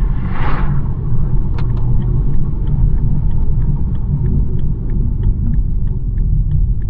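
BMW 1 Series driving along: a steady low rumble of road and engine noise. A brief whoosh comes about half a second in, and from about two seconds in there is a light, regular ticking, about three clicks a second.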